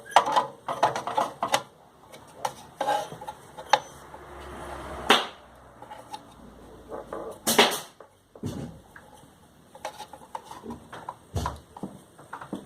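Irregular clicks, knocks and rattles of tools and parts being handled, with two loud knocks about five and seven and a half seconds in.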